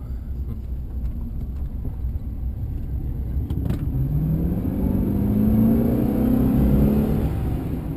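Chevy 2500HD pickup's 6-liter V8 accelerating under load. The engine note rises and gets louder from about halfway through, then drops near the end as the automatic transmission shifts smoothly up a gear.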